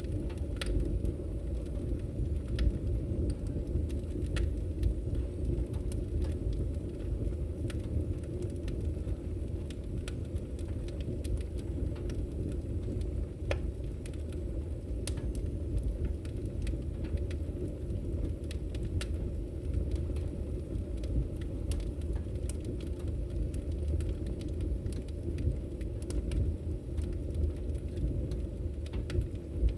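Campfire burning: a steady low rumble with scattered, irregular crackles and pops.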